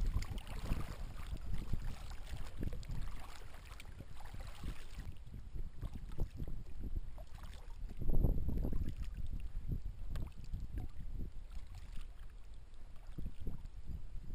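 Wind buffeting the microphone on a kayak, with water lapping and knocking against the hull. A stronger gust comes about eight seconds in.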